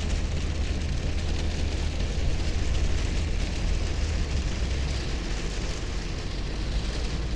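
Heavy rain beating on a pickup truck's windshield and roof, heard from inside the cab, over the steady low rumble of the truck driving.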